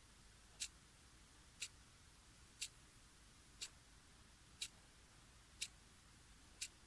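Clock ticking, one sharp high-pitched tick a second.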